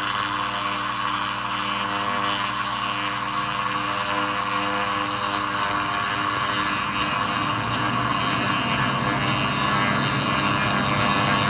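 2000-watt handheld laser rust remover running: a steady hiss with held hum tones, growing slightly louder toward the end.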